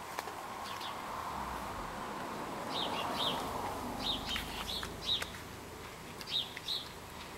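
Small birds chirping: short high chirps, mostly in pairs, starting about three seconds in and repeating several times, over a steady background hiss.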